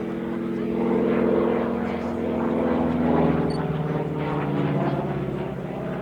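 The Pratt & Whitney R-1340 radial engine of a North American T-6 'Super Six' in flight, driving a three-blade propeller. The engine note slides in pitch and swells and fades in loudness as the plane manoeuvres overhead.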